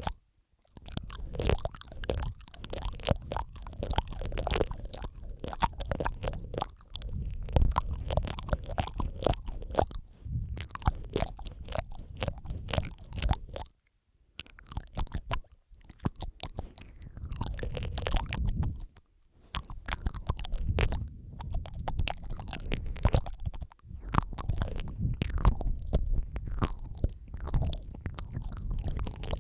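Close-miked wet mouth sounds, layered: lip smacks, tongue clicks and licking noises in quick succession, with low thumps from contact with the microphone. The sound stops briefly a few times.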